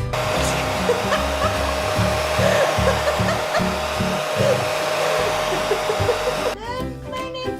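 Steady blowing hiss of an electric blower motor with a constant hum. It starts at once and cuts off suddenly about six and a half seconds in, with a beat of background music underneath.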